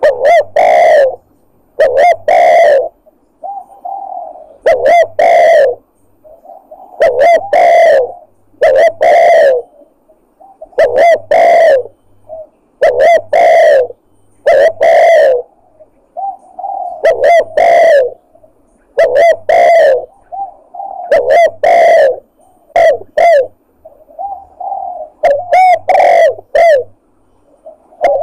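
Recorded spotted dove (tekukur) lure call played loud: phrases of soft lead-in notes followed by loud, deep coos, repeated over and over every couple of seconds.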